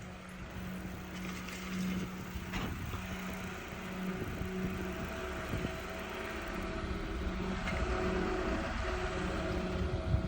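A motor vehicle running steadily, with a low rumble and a steady hum; one short click about two and a half seconds in.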